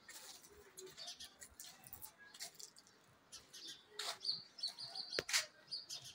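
Small birds chirping and twittering, with a thin high whistled note a little past the middle. Several short, sharp clicks or knocks are mixed in, the loudest about two-thirds of the way through.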